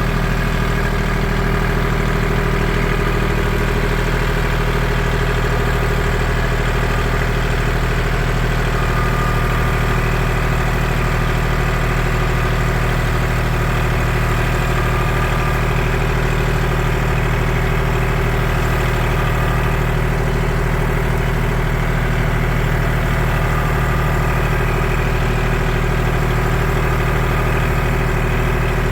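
An engine running steadily at an even speed, its pitch unchanging throughout.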